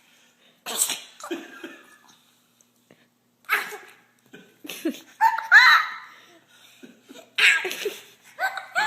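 A person laughing in short bursts, with several sharp, breathy bursts in between and a pitched, rising-and-falling voice sound about five and a half seconds in.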